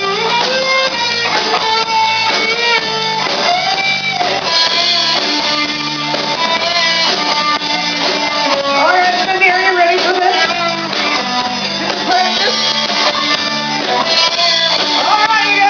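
Live rock band playing loudly, led by electric guitar with a steady beat, faint singing in places.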